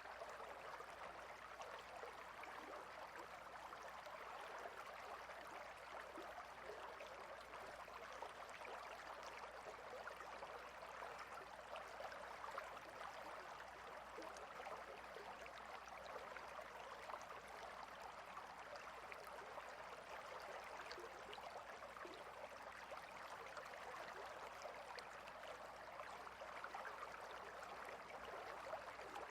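A clear, shallow river running steadily over rocks, a faint, even babble and trickle.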